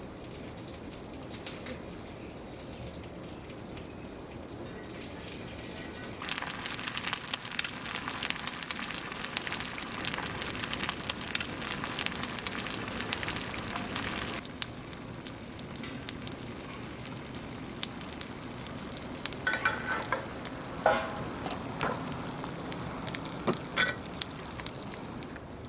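Fire burning in a fire pit, crackling and sizzling steadily, with a louder, denser burst of crackling from about six to fourteen seconds in.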